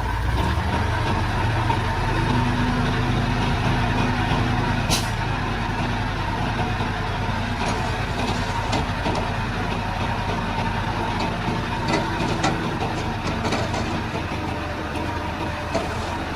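Heavy diesel earthmoving machinery running with a steady drone, with a few sharp clicks and clanks scattered through it.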